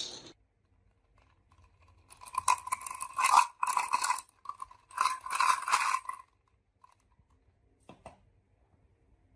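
Marbles rolling and clattering along a toy marble run, in three bursts of rattling between about two and six seconds in, with one short click near the end.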